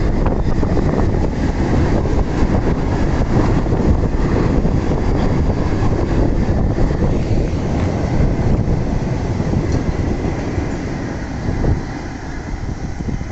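Freight train passing close by: a steady, loud rumble of wagons running on the rails, getting quieter near the end.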